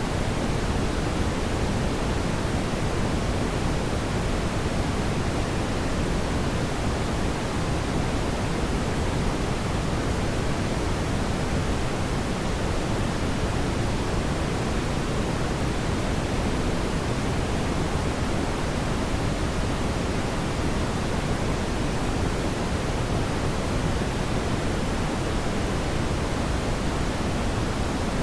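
Fireplace ambience: a steady, even rushing noise, heavier in the low end, with no distinct crackles or pops.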